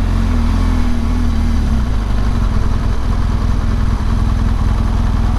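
BMW R1200GS Adventure's boxer-twin engine running on the road, with steady rushing wind and road noise. The engine note falls slightly over the first two seconds.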